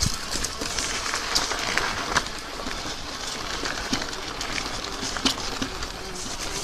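Riding noise from an e-bike on a rough path: a steady rush of tyres rolling and wind, with scattered small clicks and crackles.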